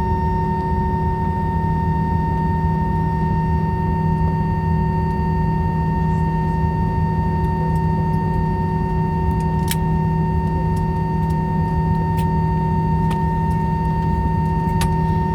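Airliner cabin noise on the ground: a steady low rumble with a steady high-pitched whine from the running engine and aircraft systems, plus a few faint clicks in the second half.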